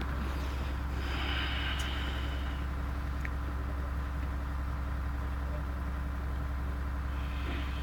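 Steady low electrical hum with an even background hiss, no voice.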